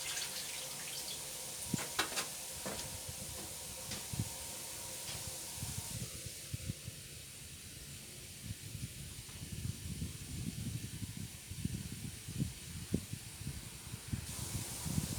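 Water running with a steady hiss, with a few sharp clicks about two seconds in and irregular low rumbles and thumps through the second half.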